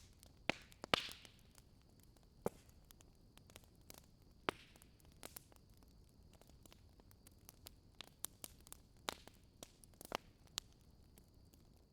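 Wood fire crackling in a fireplace: irregular sharp pops and snaps over a faint hiss, with a few louder pops around the first second and again near the middle. A faint steady high whine runs underneath.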